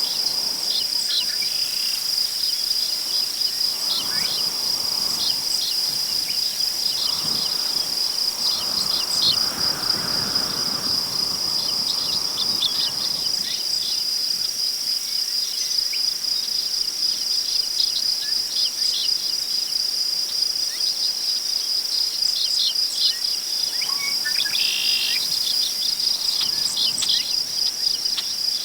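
Crickets trilling continuously in one steady high tone, with scattered short bird chirps over it. Tall prairie grass rustles in a wind gust that swells and fades in the first half, and a single longer bird call sounds near the end.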